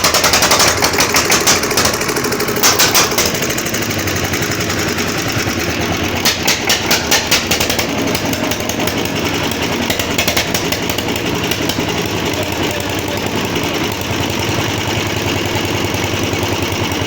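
Petter engine driving a high-pressure plunger pump for a car wash, running steadily with a fast knocking beat. The clatter turns louder and sharper for short spells, at the start, near three seconds, from about six to seven and a half seconds, and near ten seconds.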